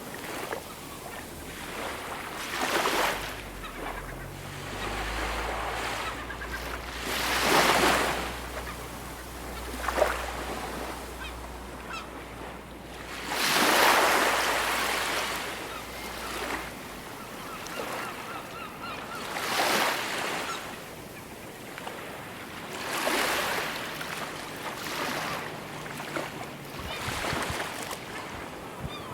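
Ocean waves breaking and washing up on a shore, swelling and falling back in surges every few seconds.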